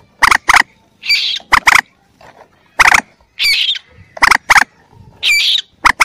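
Bird-lure recording of young mandar (moorhen) calls played on a loop. Sharp clicking notes come in pairs and alternate with short squeaky, looping notes, the pattern repeating about every two seconds.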